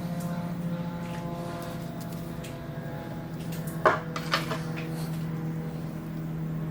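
Steady electric hum from a machine running, with sharp metallic clinks of parts or tools knocking together about four seconds in.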